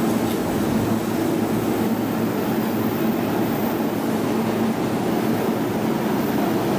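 E233-1000 series electric commuter train slowly pulling out of the platform. Its running noise is a steady, even rumble.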